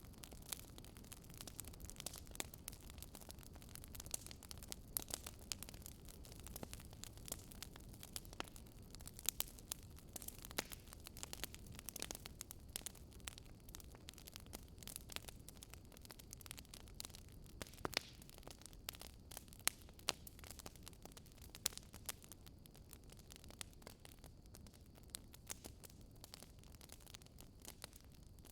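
Crackling wood fire: irregular sharp pops and snaps over a soft steady hiss.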